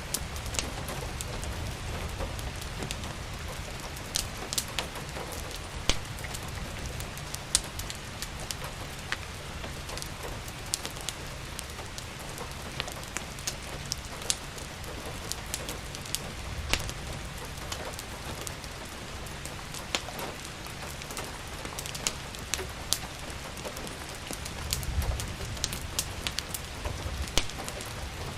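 Steady rain hissing, with a wood fire crackling over it in sharp, irregular pops, and a low rumble underneath.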